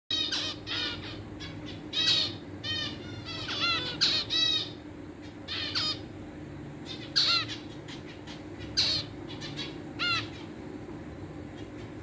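Caged aviary birds giving about a dozen short calls that slide down in pitch, bunched together in the first few seconds and coming more sparsely later, over a steady low hum.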